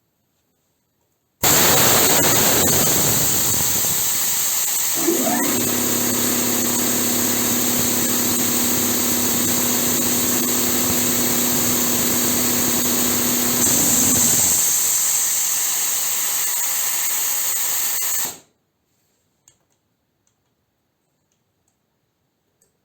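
Compressed air blowing off through the safety relief valve of a rebuilt SO-7B compressor's receiver: a loud steady hiss that stops abruptly. A steady low whistling tone joins it for about ten seconds in the middle. The valve is opening too readily, holding pressure poorly.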